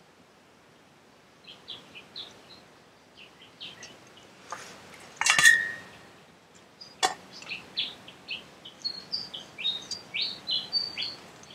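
Small birds chirping in many quick, short, high notes, busier over the second half. About five seconds in comes a sharp metal clank with a short ring, the loudest sound, as the mesh strainer knocks the stainless steel bowl, and another knock follows about two seconds later.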